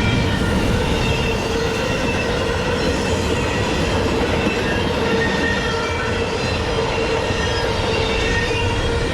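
Norfolk Southern freight train rolling past steadily, its wheels letting out short high-pitched squeals here and there over a continuous rumble.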